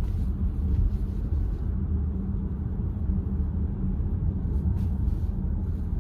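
Steady low road and tyre rumble inside the cabin of a moving VW ID.4 electric car, with no engine note.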